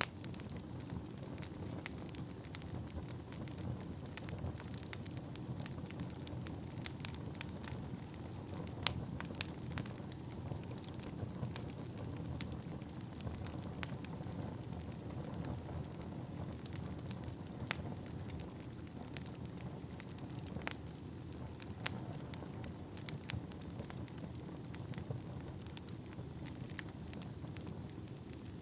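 Wood fire burning in a fireplace: a steady low rumble of flames with frequent sharp, irregular crackles and pops from the burning logs. Near the end a faint, thin high whistle slides slightly downward.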